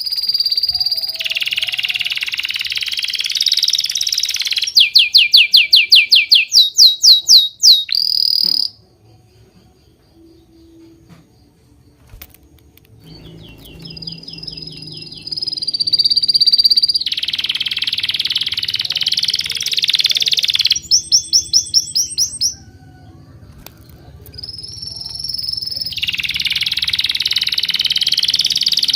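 A songbird singing loud, high phrases: a held whistle, a warbling passage, then a fast trill of down-slurred notes at about eight a second. After a pause of a few seconds the same song comes round again, roughly every twelve seconds.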